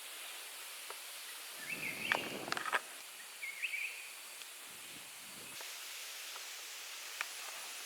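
Tropical jungle ambience: a steady hiss of insects, with two short chirping calls about two and three and a half seconds in, and a few light clicks and rustles around the first call.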